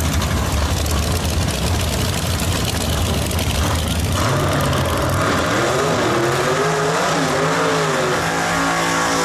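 Drag-racing engine sound: a loud rumbling engine noise, then from about four seconds in a pitched engine note that rises and falls as it revs.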